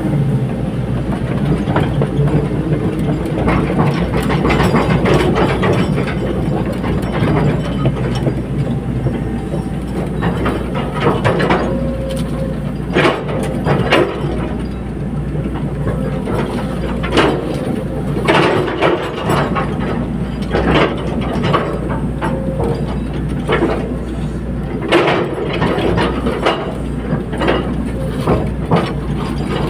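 Caterpillar 320D hydraulic excavator working: the diesel engine runs steadily under many irregular sharp metallic clanks and knocks from the machine's tracks and working gear.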